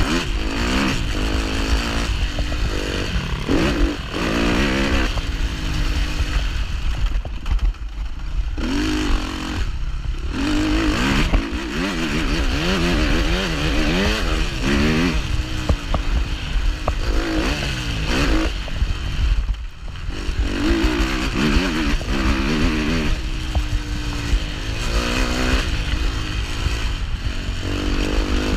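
Suzuki 250 four-stroke motocross bike engine revving hard and easing off again and again as it is ridden around a dirt track. The engine note rises and falls every second or two, with brief drops off the throttle about eight, ten and twenty seconds in.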